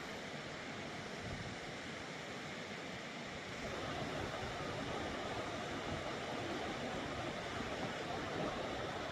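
Rushing water of Tumalo Creek, a steady roar that gets louder about three and a half seconds in.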